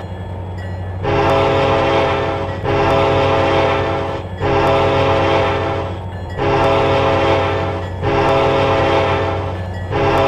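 Freight locomotive air horn sounding over and over: five long blasts of about a second and a half each, with brief breaks, and a sixth starting at the end, over the steady low rumble of the locomotive's engine.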